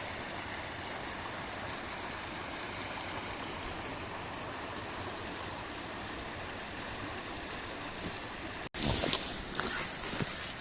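Stream water flowing in a steady rush. Near the end a cut brings a louder, uneven stretch with scattered knocks.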